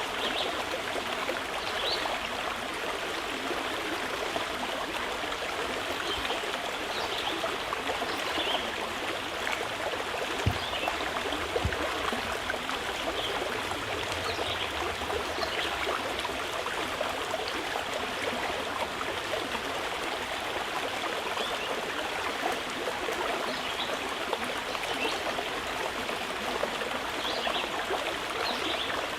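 Mountain river rushing steadily over stones, with faint bird chirps now and then above the water. Two brief low knocks about ten and eleven seconds in.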